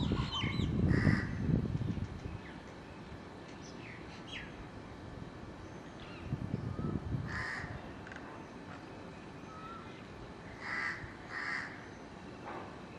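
Birds calling outdoors: a few short, harsh calls, one about a second in, another about seven seconds in and a pair near the end, with faint chirps between. A low rumble in the first second or two.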